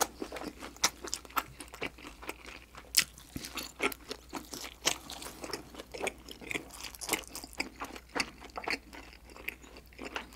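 Close-miked chewing of a mouthful of dumpling: a steady run of short mouth clicks and smacks.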